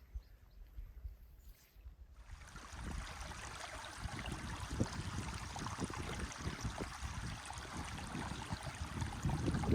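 Running water, an even rushing noise that starts about two seconds in after a near-quiet moment and grows slightly louder, with an uneven low rumble beneath it.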